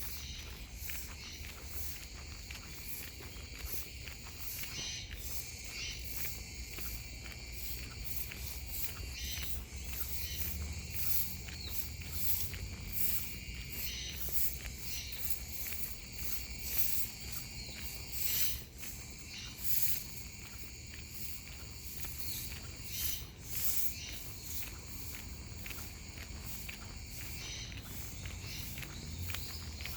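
Cicadas singing in chorus: a dense, high-pitched buzzing with rapid pulsing that swells and fades in strength, over a low rumble.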